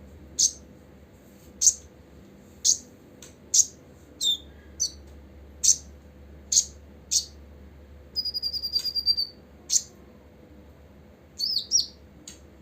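Copper-throated sunbird calling: a series of sharp, high single chip notes about once a second, a rapid high trill about eight seconds in, and a quick twittering phrase near the end.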